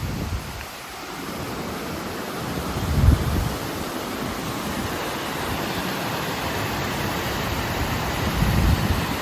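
Mountain river rushing steadily, with wind buffeting the microphone about three seconds in and again near the end.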